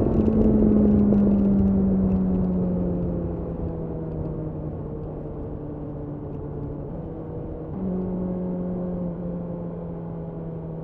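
BMW S1000R's inline-four engine running, its note falling slowly in pitch and getting quieter as the bike slows. About three quarters of the way through, the note steps up in pitch and gets louder.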